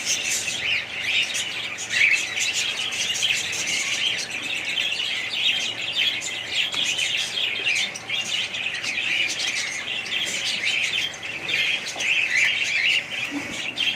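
Many small birds chirping at once in a dense, continuous chatter of short, high calls overlapping one another, without a pause.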